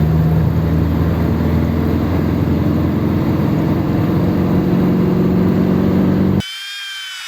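Ford 100E's 1172 cc side-valve four-cylinder engine pulling steadily on the road, with road noise. It cuts off abruptly about six and a half seconds in, replaced by a quieter, wavering high whine.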